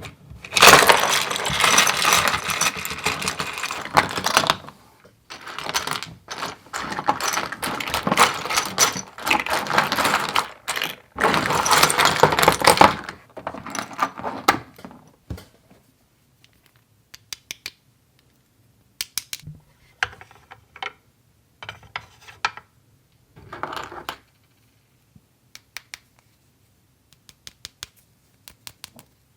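Small hard plastic toy pieces clattering and rattling in dense runs for the first dozen seconds, then scattered single clicks and short rattles as they are handled one at a time.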